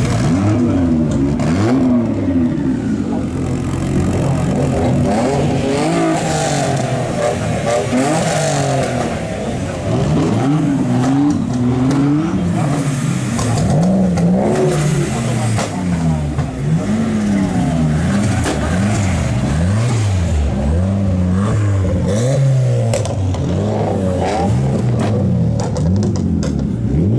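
A sports car's engine revved over and over through a loud exhaust, its pitch climbing and falling back many times in quick succession.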